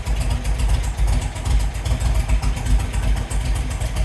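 1952 MG TD's 1250 cc XPAG four-cylinder engine idling steadily on choke while warming up from a cold start, with an even, regular exhaust pulse.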